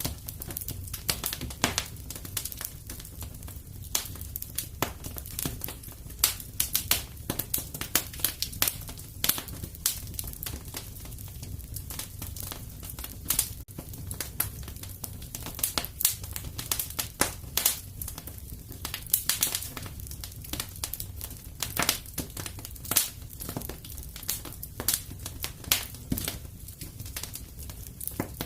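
Wood fire crackling in a fireplace: dense irregular pops and snaps over a steady low rumble of the flames.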